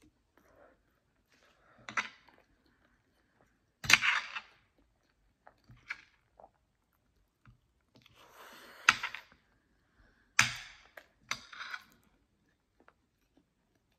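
Close-miked eating sounds: a handful of sharp mouth smacks and clicks while chewing, spaced a second or two apart, the loudest about four seconds in.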